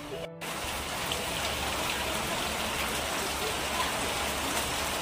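Heavy rain pouring down on corrugated roof sheets and streaming off the eaves: a steady, even hiss that comes in after a momentary dropout at the very start.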